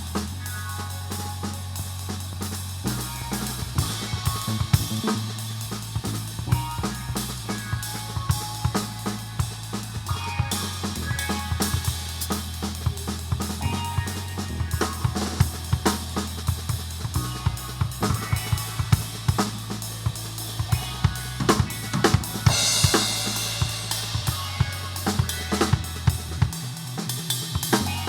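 Drum kit playing an improvised groove, with snare, bass drum, hi-hat and cymbals, over a bass line of held low notes that change every second or so. A cymbal wash swells up about four-fifths of the way through.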